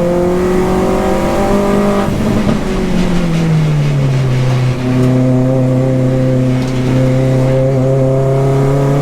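Mini R55 Clubman race car engine running hard on track. Its pitch rises under acceleration, falls away over a second or two from about two seconds in, then holds a steady note that slowly climbs again.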